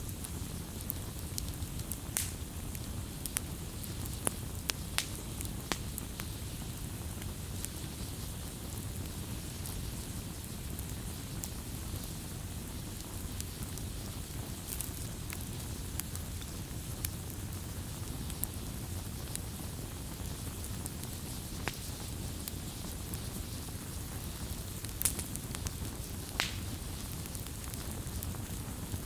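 Campfire burning: sharp wood crackles and pops, scattered irregularly, over a steady low rumble of flame.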